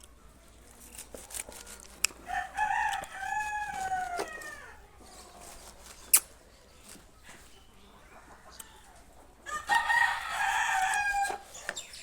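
A rooster crowing twice, once about two seconds in and again near the end, each a long call that drops in pitch as it ends. A sharp click is heard between the two crows.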